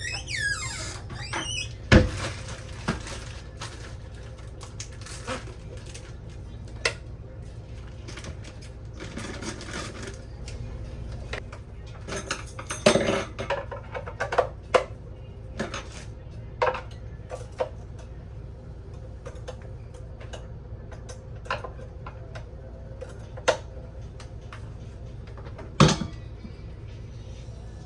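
Kitchen clatter of dishes, utensils and cupboards being handled: scattered clinks and knocks, a louder knock about two seconds in and another near the end, and a busier patch of clatter midway, over a steady low hum.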